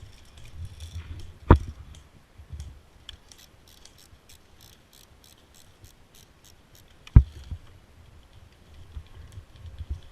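Two sharp cracks about five and a half seconds apart, with a quick run of faint, evenly spaced high ticks between them.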